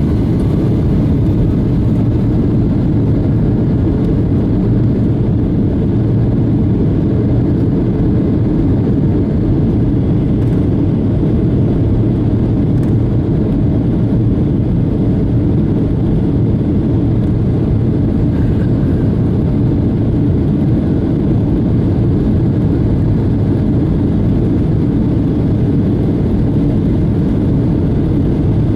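Steady, loud roar of jet engines and rushing air inside the cabin of a Boeing 757-200 during departure.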